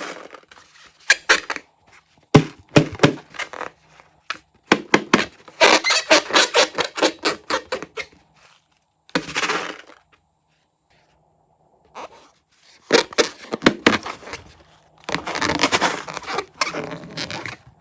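Slime being worked by hand: spells of dense crackling and popping clicks, each lasting a second or few, with short pauses between them.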